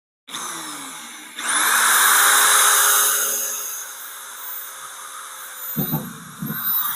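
Corded 1/2-inch electric drill starting up, then speeding up to full speed about a second in with a high motor whine, and easing off after a couple of seconds. A few low knocks near the end.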